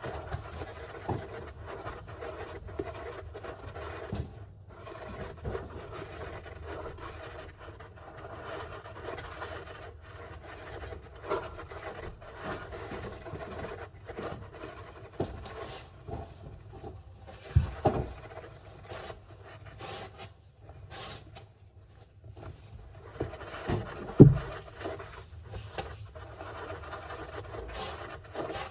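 Golden hamster scratching and scrabbling in its enclosure, an irregular scraping and rubbing, with a few sharp knocks, the loudest about two-thirds of the way through.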